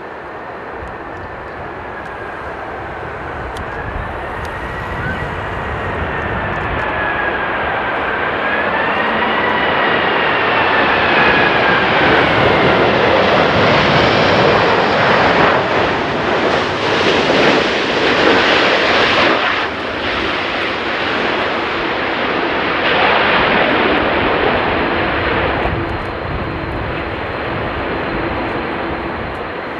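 Jet airliner flying past. Its engines grow louder toward the middle, with a whining tone that slides in pitch, then ease off with several surges before fading.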